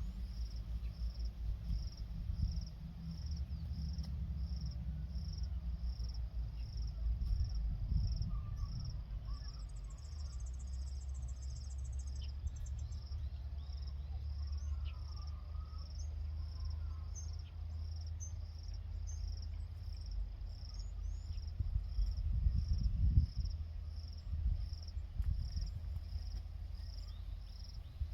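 An insect, cricket-like, chirping in a steady rhythm a little more than once a second, with a brief faster, higher trill about ten seconds in, over a low rumble.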